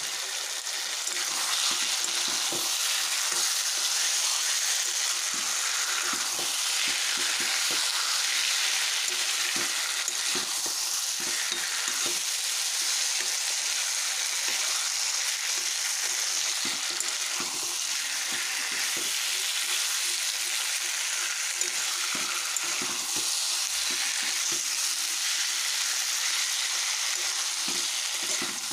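Chicken pieces and ground spices sizzling steadily as they fry in a metal wok (kadai), while a spatula stirs them with frequent short scrapes and knocks against the pan.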